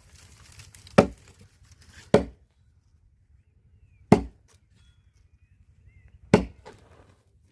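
Four heavy chopping strikes, a blade coming down hard at uneven gaps of about one to two seconds.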